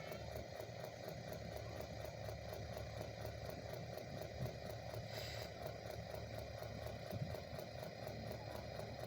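Steady mechanical hum, like a small motor running, with a short faint hiss about five seconds in.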